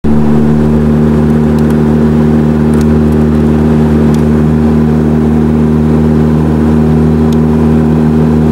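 Caterham 7's engine running loud at steady revs, heard from the passenger seat of the open car, its pitch holding nearly even.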